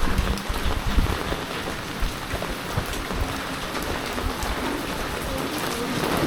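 Heavy typhoon rain falling steadily, with an uneven low rumble underneath.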